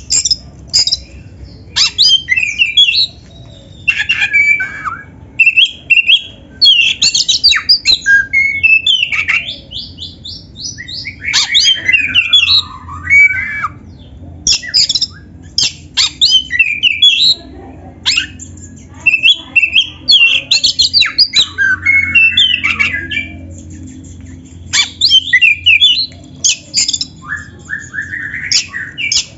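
Oriental magpie-robin (black-breasted kacer) singing a loud, varied song in bursts of a second or two. The phrases mix clear whistles, harsh scratchy notes and rapid trills, with canary-like phrases woven in. A faint steady low hum runs underneath.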